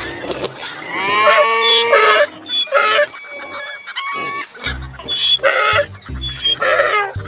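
Farm animal calls, a run of pitched cries with a long gliding one about a second in and shorter ones after, over background music with a low beat.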